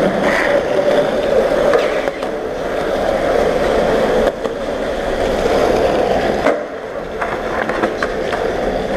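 Skateboard wheels rolling steadily over a car-park floor. There is a sharp clack of the board a little over four seconds in, and the rolling drops off suddenly about six and a half seconds in.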